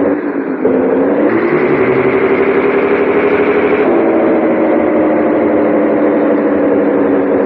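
Scania 113H 360 truck's six-cylinder diesel engine running steadily. The revs dip briefly at the start and then climb; about four seconds in the pitch steps up and then slowly sags.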